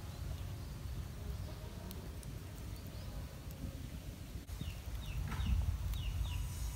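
Outdoor ambience with a steady low rumble, and a bird chirping in quick, short falling notes over the second half.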